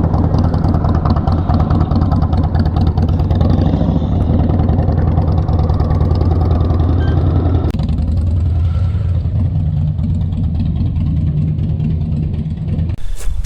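Motorcycle engine running steadily while riding on the road, a loud low drone; the sound shifts a little about eight seconds in and cuts off just before the end.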